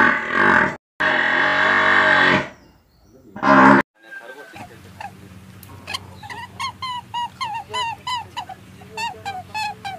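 Water buffalo mooing loudly in long calls, three of them in the first four seconds. After a cut, a low steady hum with quick runs of short, high animal calls, several a second.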